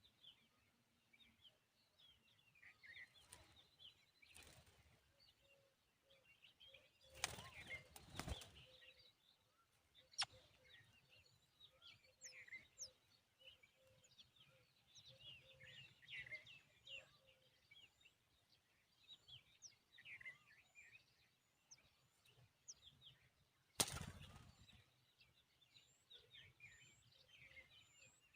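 Faint, scattered bird chirps and twitters throughout, with a few short high falling notes. Twice, about seven seconds in and again near the end, a brief loud flutter of noise cuts across.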